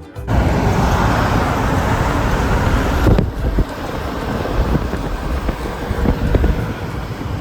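Wind buffeting the microphone, with a low vehicle rumble and traffic noise; the gusting rises and falls, with a sudden change about three seconds in.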